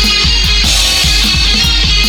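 Instrumental rock music: distorted electric guitar riffing over a steady drum beat and bass, with no vocals.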